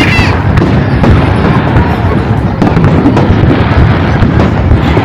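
Aerial fireworks exploding in a dense barrage: continuous deep booms with many sharp cracks layered over them.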